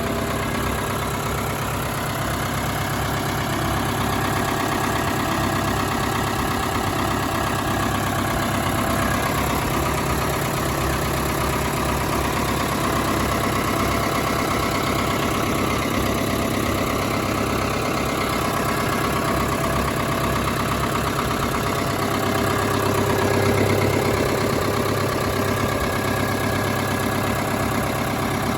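Ford 7000 tractor's four-cylinder diesel engine idling steadily, growing slightly louder for a moment near the end.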